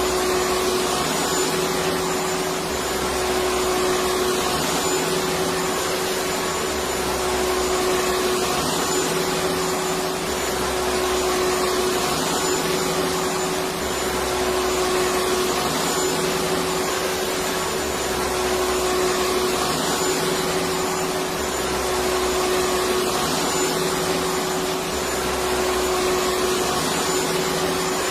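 Electric vacuum cleaner running steadily: a continuous rushing noise with a steady hum, and a low throb that swells and fades every few seconds.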